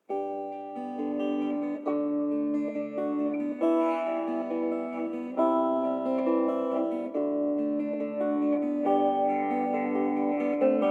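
Strummed acoustic guitar chords: the instrumental opening of a song, starting suddenly out of silence.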